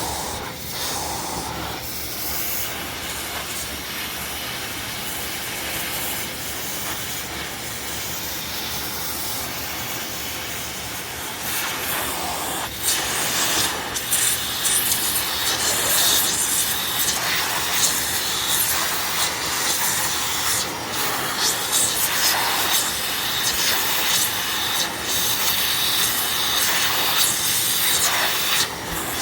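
Steady hissing rush of air with rubbing and scraping mixed in, getting louder and rougher about halfway through.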